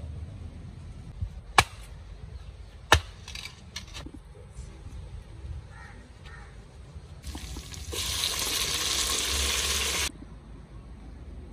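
Cooking sounds: two sharp knocks, then about three seconds of loud sizzling that cuts off abruptly.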